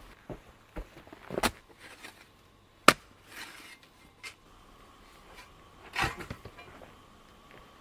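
A few separate sharp knocks of a tool striking wood, spaced irregularly, the loudest about three seconds in.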